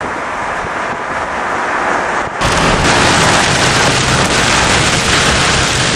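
Heavy rain and wind beating on a moving vehicle during a storm: a steady rush that jumps suddenly louder a little over two seconds in.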